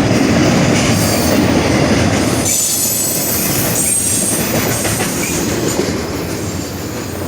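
Freight train cars rolling past, wheels rumbling and clattering on the rails, with a thin high wheel squeal in the middle; the sound eases slightly toward the end.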